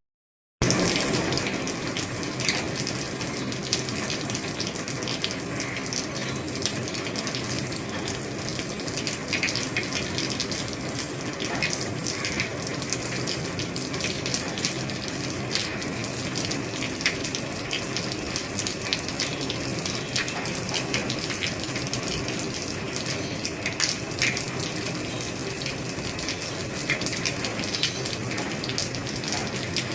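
Heavy rain falling on an old roof: a steady hiss scattered with many small drop ticks. It cuts in after a brief silence at the start, and a faint thin high whine joins about halfway through.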